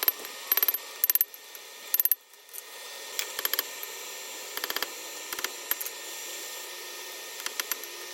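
Hammer striking metal on an anvil in quick clusters of blows, each with a bright metallic ring. A steady hiss runs under the strikes from about three seconds in.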